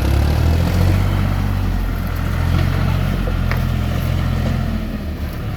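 John Deere tractor's diesel engine running steadily with a low, even hum.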